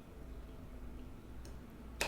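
Quiet room tone with a steady low hum and a faint click about one and a half seconds in.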